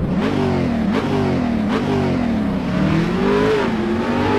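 Car engine revving and accelerating, its pitch climbing and then dropping sharply several times, like a run up through the gears.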